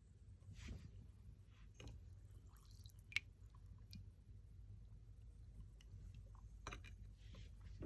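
Near silence: low room hum with a few faint, scattered wet clicks and squishy sounds. The sharpest click comes about three seconds in.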